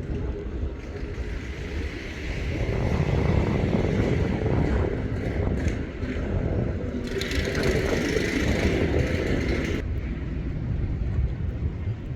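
Airbus A330 jet engines rumbling as the airliner lands, swelling about three seconds in, with a higher hiss added between about seven and ten seconds in.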